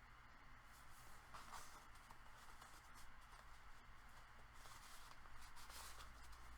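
Faint, intermittent rustling of paper journal pages and inserts being handled and turned, a few soft brushes of paper against paper.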